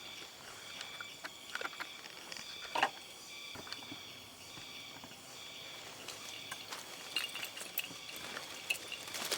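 Scattered rustles and small knocks, with one louder knock about three seconds in, over a steady high-pitched hum of insects.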